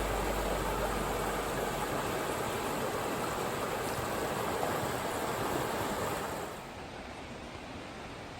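Rushing creek water: a steady, even rush that drops to a quieter level about six and a half seconds in.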